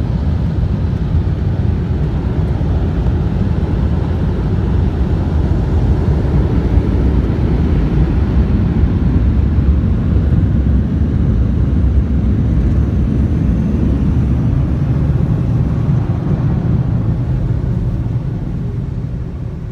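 Belanger FreeStyler automatic car wash machinery running, heard from inside the car: a loud, steady rumbling rush of noise that eases off near the end.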